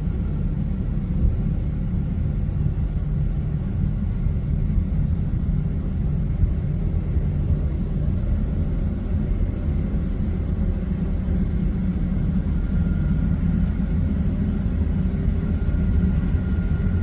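Steady low rumble of jet airliner engines, with a faint high whine coming in about three quarters of the way through.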